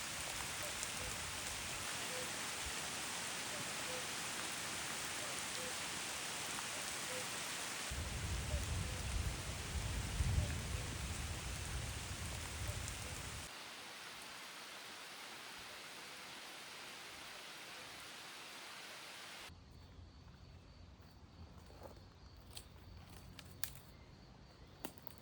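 Steady rain hiss with a low rumble of thunder rolling for about five seconds, starting about eight seconds in. The rain then drops to a lighter, quieter patter, and in the last few seconds only scattered faint clicks and taps remain.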